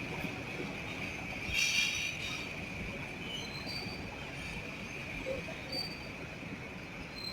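Freight train carrying trucks rolling past, its wheels giving a steady low rumble with a brief, louder high-pitched metallic wheel squeal about a second and a half in, over a steady high-pitched drone.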